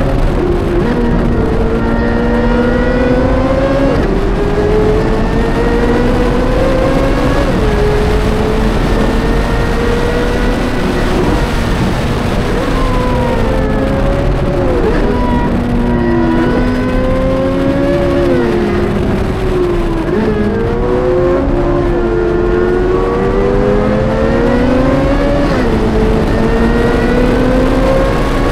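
High-revving sports car engine at full throttle on a race track. Its pitch climbs and then drops sharply at an upshift every few seconds, with a run of downshifts about halfway through.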